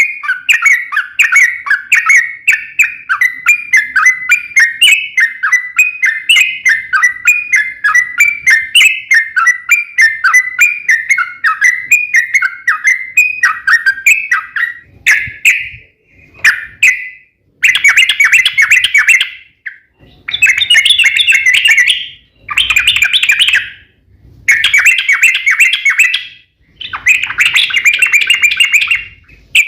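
Yellow-vented bulbul (trucuk) song: a long, fast, unbroken run of chirping notes, then from about halfway a series of dense trilling bursts of about two seconds each, separated by short gaps.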